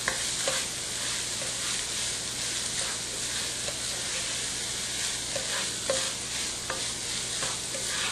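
Diced chicken, onions and celery sautéing in butter in a pan: a steady sizzle, with light scrapes and taps of a wooden spoon stirring.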